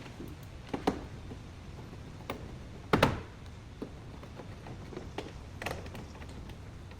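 Scattered sharp clicks and knocks of hand work on a car body, the loudest about three seconds in, over a low steady hum.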